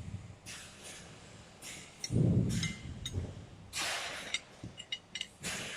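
Parts of a robot end-of-arm tool being handled and fitted together: scraping and rustling, a dull knock about two seconds in, and a quick run of small clicks near the end.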